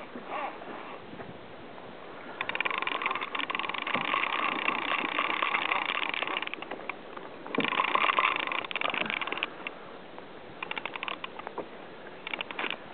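Fishing reel drag buzzing in rapid clicks as a hooked mahi-mahi pulls line out: two long runs, the first about four seconds and the second about two, then two short bursts near the end.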